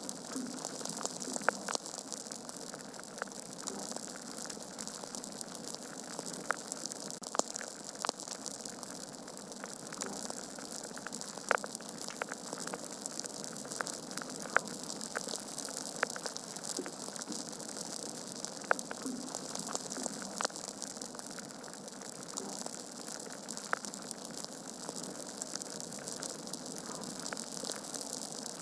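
Wood fire burning in a fireplace: a steady hiss of flames with irregular sharp crackles and pops from the burning logs.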